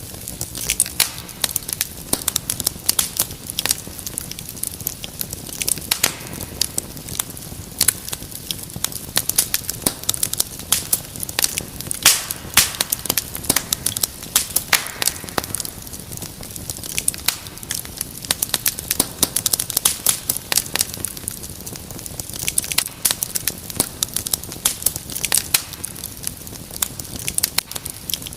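Wood fire in a fireplace crackling, with frequent irregular sharp pops over a soft steady hiss.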